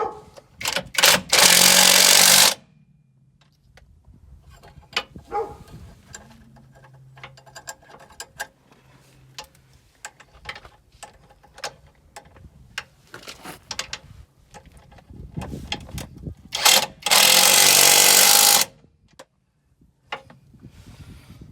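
Power impact tool hammering in two bursts of rapid blows, one just after the start and one about 17 s in, each lasting under two seconds, as the new ball joint is driven in on a Peugeot 207's front suspension. Lighter clinks and knocks of tools come in between.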